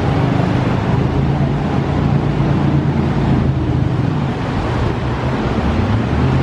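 Jet boat engine droning steadily at a constant pitch, over the even rush of river water.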